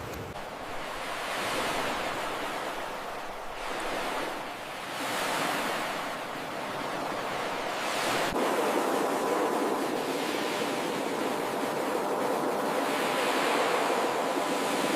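Ocean surf: waves breaking and washing up the shore, the hiss swelling and easing every few seconds as each wave comes in.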